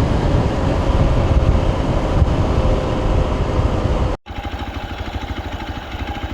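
Motorcycle engine running under way, heavy and loud with wind noise on the microphone. About four seconds in it cuts off abruptly, and a quieter stretch follows with the engine's steady, even pulsing beat.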